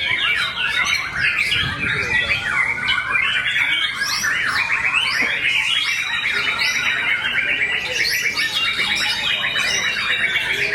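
Many songbirds singing at once: a dense, unbroken chorus of rapid overlapping chirps, trills and whistles.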